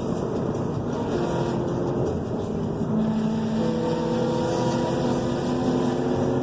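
Car engine running under varying throttle, its pitch holding steady and then stepping up or down several times as the revs change.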